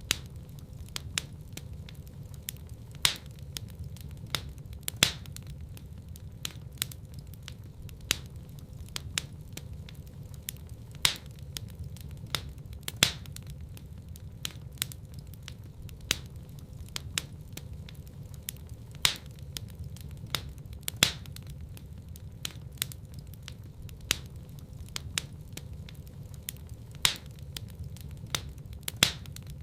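Wood fire crackling in a fireplace: frequent sharp pops and snaps, a few much louder than the rest, over a steady low rumble.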